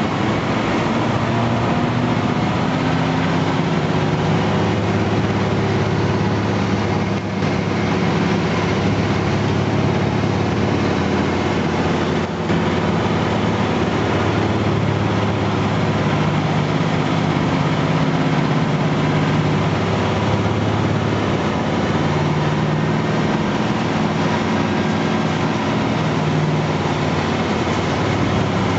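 Scania timber truck's diesel engine running while the truck drives, heard from inside the cab over steady road noise. The engine pitch drifts slowly up and down, with two brief dips in loudness.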